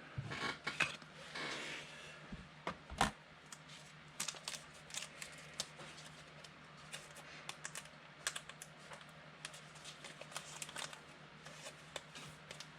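Light, irregular clicks and taps from trading cards and packs being handled, with a brief rustle in the first couple of seconds.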